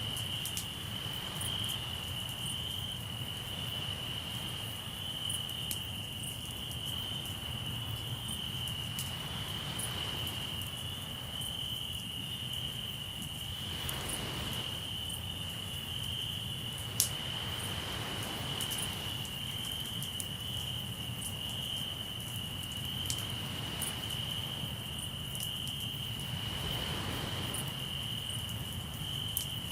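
Crickets trilling steadily and high-pitched, over campfire crackles and scattered pops, one louder pop about 17 seconds in. Soft swells of surf wash in every few seconds.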